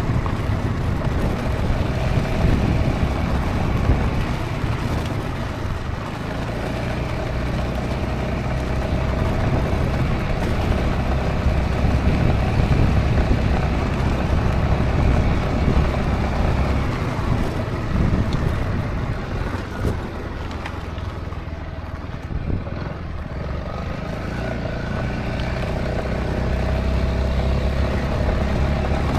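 Honda ADV350 maxi-scooter under way: its single-cylinder engine runs steadily under a heavy low rumble of riding noise. The sound eases off and turns quieter for a few seconds about two-thirds of the way through, then picks up again.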